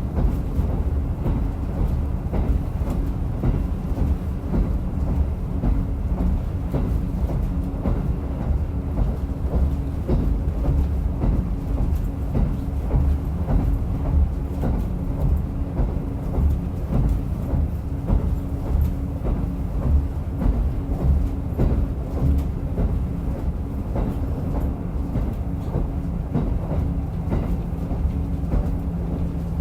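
Diesel railcar running along at steady speed, with continuous low rumble of engine and wheels on rail, many small rail clicks and a steady hum. A second, lower hum comes in near the end.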